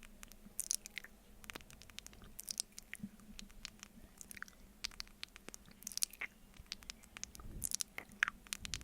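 Close-miked sticky mouth sounds of honey being eaten off a spoon: many wet clicks and smacks, some bunched in quick clusters about once a second.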